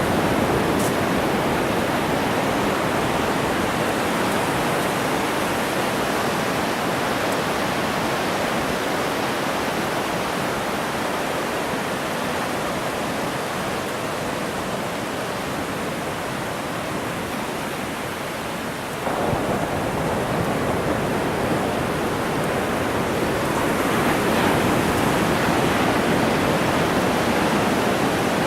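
Steady noise of ocean surf on a beach, with a sudden jump in level about two-thirds of the way through.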